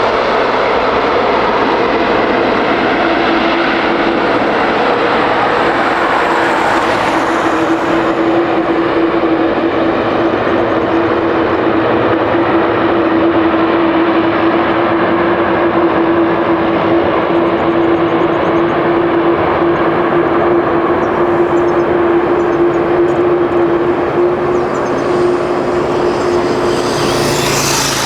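Jet airliner engines running loud and steady, a broad rush of noise carrying one steady droning tone.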